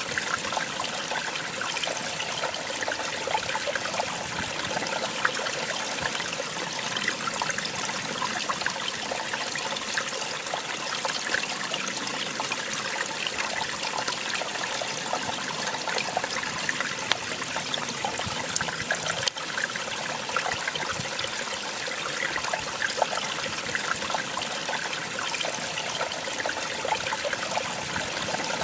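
Small waterfall splashing and trickling steadily over rocks, a constant rush of water with fine spattering.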